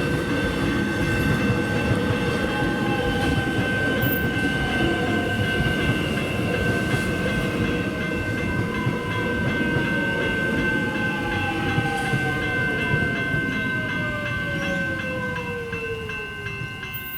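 Suburban electric train passing through a level crossing, its wheels rumbling on the rails, with a whine that falls slowly in pitch through the second half. The crossing's electronic bells ring steadily over it.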